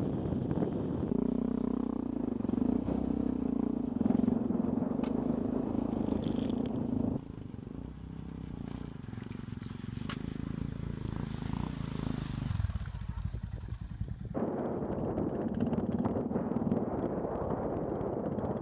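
Single-cylinder engine of a Yamaha XT660Z Ténéré motorcycle running under way, with wind noise, in several cut-together stretches. In the middle stretch the engine note drops as the bike slows.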